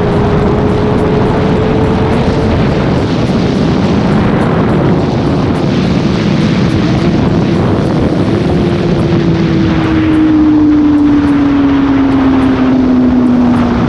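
Sport motorcycle engine while riding, under heavy wind rush. The engine note climbs slowly at first, then falls steadily over the last few seconds.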